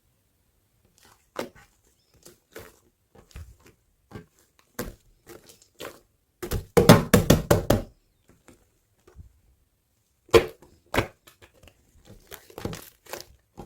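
Hands playing with slime, squeezing and poking it to make scattered wet clicks and pops, with a dense run of rapid crackling pops about seven seconds in.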